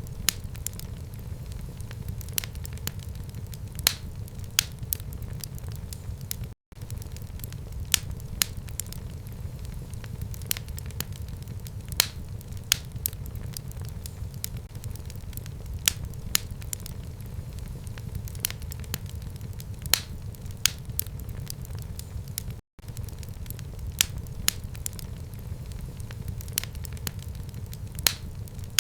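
Wood fire burning in a home fireplace: a steady low rumble of the flames with frequent sharp crackles and pops from the burning logs. The sound cuts out completely for an instant twice, once early and once later on.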